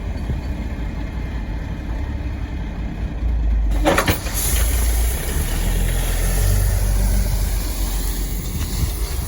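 Heavy diesel engine of a gravel dump truck running steadily. About four seconds in, a brief rising sweep and a sudden rise in level set in, leaving a steady hiss over the engine.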